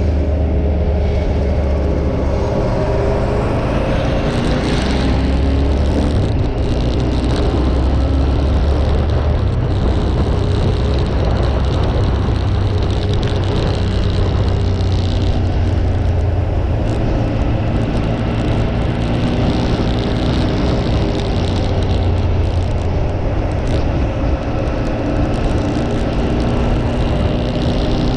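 Motorcycle engine running steadily while riding, its note drifting gently up and down, over a constant rush of noise.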